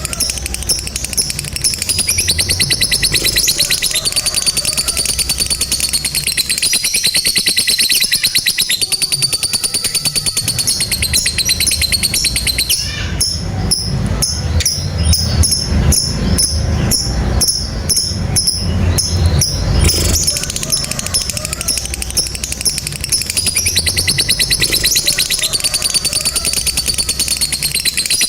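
Lovebirds chattering in the long, unbroken rapid trill that fanciers call ngekek panjang, high-pitched and continuous. About midway the chatter changes to a coarser run of pulses about two a second before the fast trill returns.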